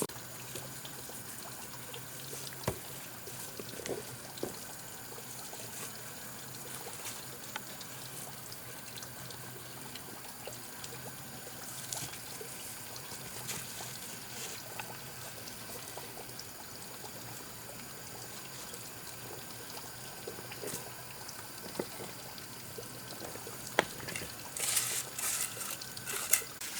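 Water trickling steadily, with a few scattered sharp knocks and a brief cluster of louder clatters near the end.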